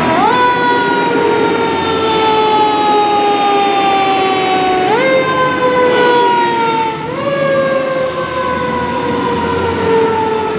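Fire engine siren wailing. It rises quickly in pitch three times, at the start, about five seconds in and about seven seconds in, and slowly falls after each rise.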